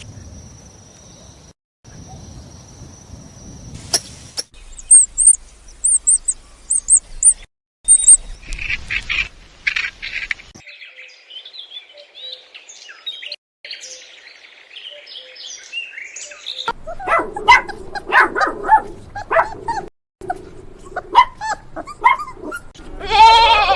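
Several short animal-sound recordings cut together: high, quick bird chirps, then a run of other bird calls and, in the last third, a dense stretch of barking and animal calls.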